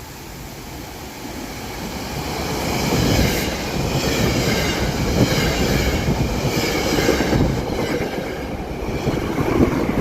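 A train approaching and passing on the rails. It grows louder over the first three seconds, then runs close by steadily as the cars go past.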